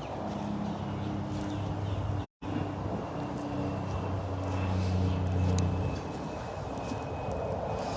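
A motor engine running, a steady low hum that sinks a little in pitch near the end and fades about six seconds in. The sound cuts out completely for a moment just after two seconds.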